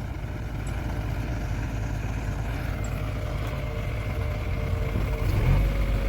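Engine of a heavy machine running steadily, getting louder about five seconds in.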